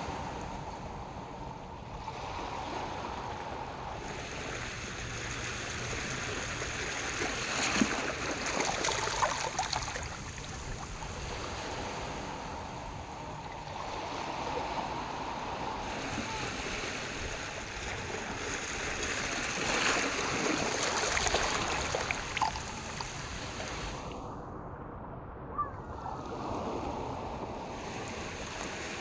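Harbor water washing in toward the shore in a steady rush, with waves surging louder about a third of the way in and again about two-thirds of the way in.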